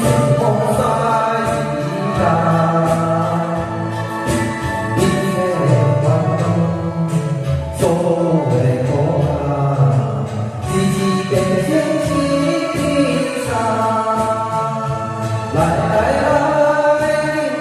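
Music: several voices singing together over instrumental accompaniment.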